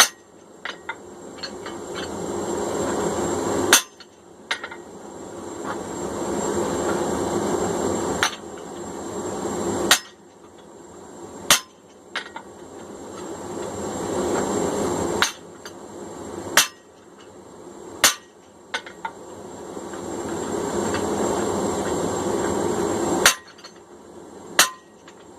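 Hand hammer striking steel: about nine single sharp blows, irregularly spaced a second and a half to four seconds apart, as fullers are set into a hot hammer billet. A rushing noise builds between the blows and cuts off at each strike.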